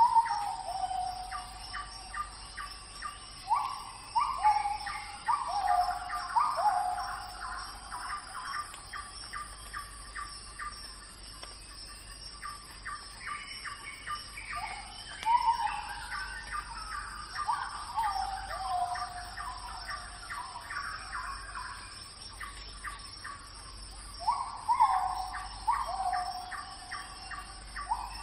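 Birds calling: bursts of short, quickly falling notes mixed with fast ticking chatter, coming in three spells.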